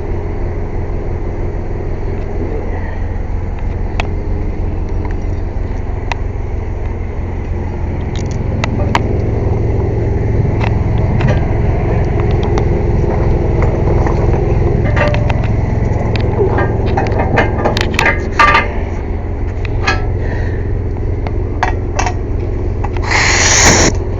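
Air compressor running with a steady low hum, with scattered metal clanks and scrapes of tire tools from about eight seconds in, and one short blast of compressed-air hiss near the end.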